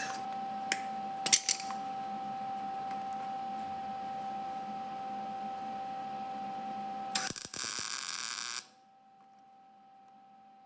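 A short MIG tack weld on sheet-metal car body panels: an even crackling buzz starting about seven seconds in and lasting about a second and a half. Before it there is a steady faint hum and a few light clicks.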